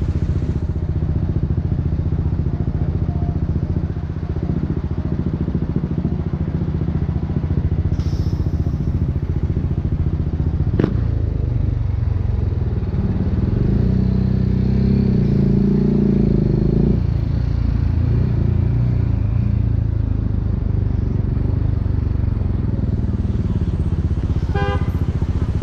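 BMW G 310 R's single-cylinder engine running through an Akrapovic racing exhaust, heard from the motorcycle itself. It runs steadily, then pulls harder and louder for about four seconds near the middle before settling again. A single sharp click comes just before the harder stretch.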